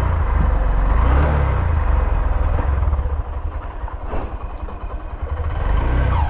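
Honda SP 125's 124 cc single-cylinder four-stroke engine running with the bike standing: louder for the first few seconds, then settling lower and uneven, with a short click about four seconds in. The engine is cold after a wash and is hesitating to pick up revs.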